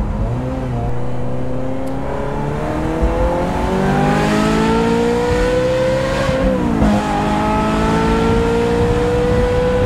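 Ferrari F355's V8 through an aftermarket Capristo exhaust, howling as it accelerates hard, its pitch climbing steadily. About two-thirds of the way through the pitch drops sharply at an upshift of the F1 paddle-shift gearbox, then climbs again as it pulls in the next gear.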